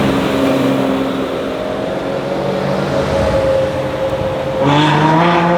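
Aston Martin DBS Superleggera's 5.2-litre twin-turbo V12 running at low revs, then getting louder and rising in pitch as it accelerates about four and a half seconds in.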